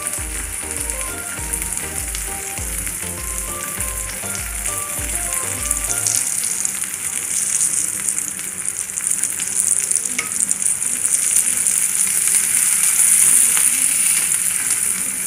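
Sandwich frying in hot butter in a pan, sizzling steadily while a metal spatula presses it down; the sizzle grows louder in the second half.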